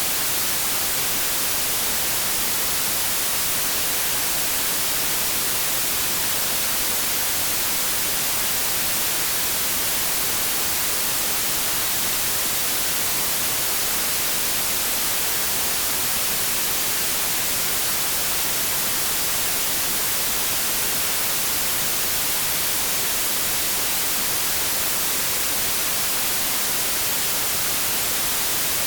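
Continuous white noise: a steady, even hiss, strongest in the high frequencies, with no change in level.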